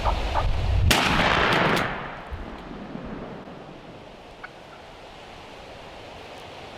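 A single loud shotgun shot at a turkey about a second in, its report rolling on for about a second before fading. A few brief turkey calls come just before the shot.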